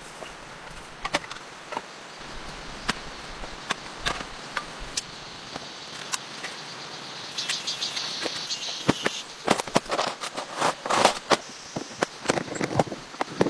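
Steady rain with scattered sharp drips ticking throughout. A high pulsing buzz comes in about halfway and lasts a couple of seconds, and louder knocks and clatter of gear being handled fill the last few seconds.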